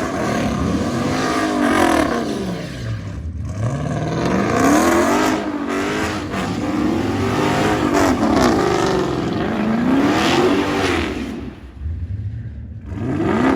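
Car engine revving hard, its pitch climbing and falling again and again, roughly every two to three seconds. There is a brief drop in level near the end before it revs up once more.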